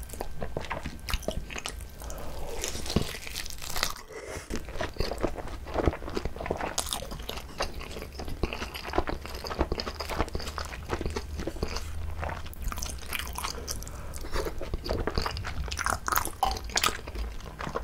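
Close-miked eating of a whole gimbap, a seaweed-wrapped rice roll: bites through the seaweed sheet and steady wet chewing of the rice, full of small irregular clicks, with a brief lull about four seconds in.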